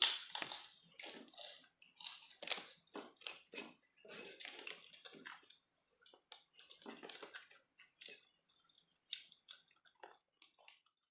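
A person chewing fried rice eaten by hand, with wet smacking and clicking mouth noises in an irregular run, loudest at the start and pausing briefly about six seconds in.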